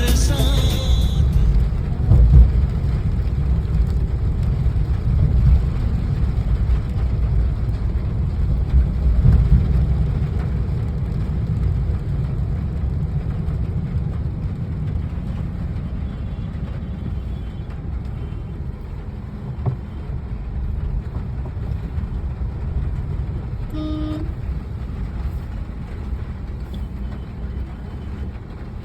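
Low, steady rumble of road traffic that fades slowly, with a short vehicle horn toot about 24 seconds in.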